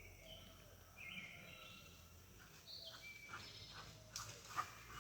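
Quiet outdoor background with faint, scattered bird chirps. A brief sharp click sounds near the end.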